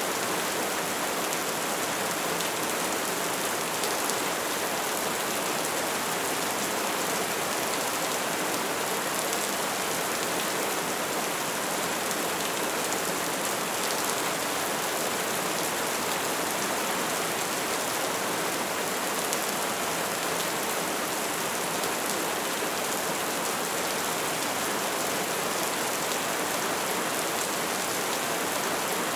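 Steady soft rain falling: an even hiss of many fine drops, with faint scattered drop ticks.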